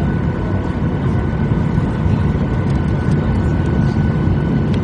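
Steady cabin noise of a Boeing 737-800 in flight, its CFM56 jet engines running with a constant low hum and a few faint steady tones over the airflow, heard from inside the passenger cabin.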